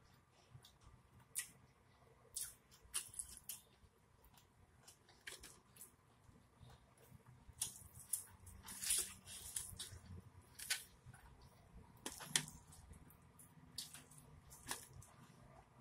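Close-miked mouth sounds of someone eating boiled corn on the cob: irregular soft wet clicks, smacks and small crunches of chewing and biting, scattered through the whole stretch.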